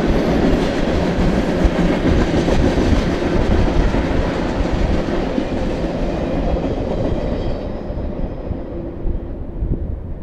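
BNSF manifest freight train rolling past, a steady rumble and rattle of cars on the rails that fades as the train draws away over the last few seconds.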